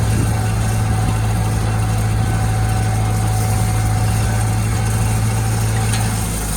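International Harvester tractor engine running at a steady speed with a deep, even hum, easing off slightly near the end.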